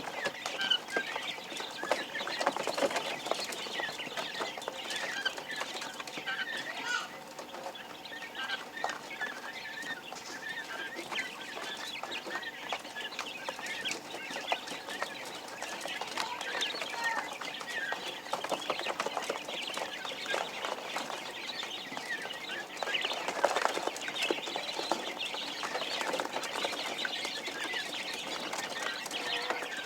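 A group of newborn quail chicks peeping: many short, high chirps overlapping without a break.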